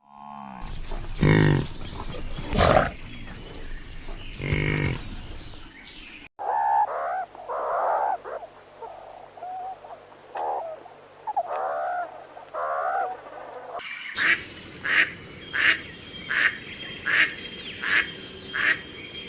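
Three different animal calls edited back to back. First come three loud, deep calls, then a run of warbling calls, and from about two-thirds in a steady series of short, sharp calls, nearly two a second.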